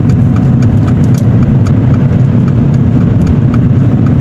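Car's turn-signal indicator ticking steadily, about three clicks a second, over the low, steady engine and road rumble inside the cabin as the car leaves a roundabout.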